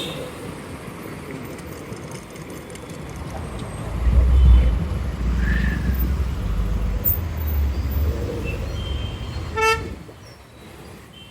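Road traffic noise with a heavy low rumble for a few seconds from about four seconds in, and one short vehicle horn toot near the end.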